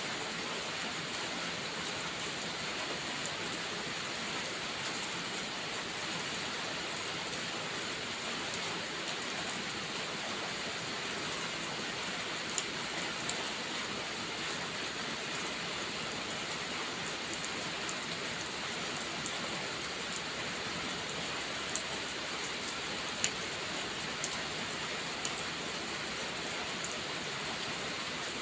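Steady rain falling in an even hiss, with a few scattered sharp clicks or pops in the second half.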